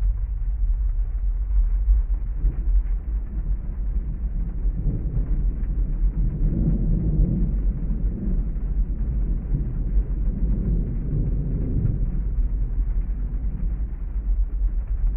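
Steady heavy rain with a long roll of thunder that builds about two seconds in, swells twice through the middle and fades away near the end.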